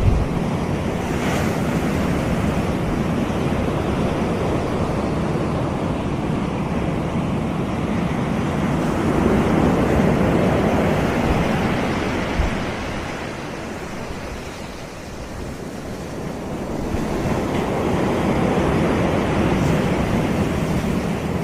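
Sea waves breaking and washing on a sandy beach: a continuous surf wash that swells about halfway through, eases off, then builds again near the end.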